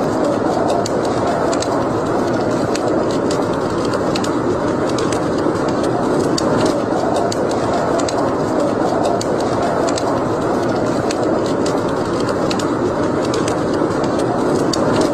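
Wood fire burning in a fireplace: a steady noise of the flames with frequent small, irregular crackles and pops.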